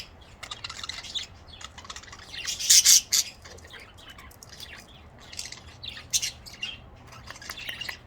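Budgerigars chirping and chattering in quick, overlapping high chirps, with a louder burst of squawks about two and a half seconds in.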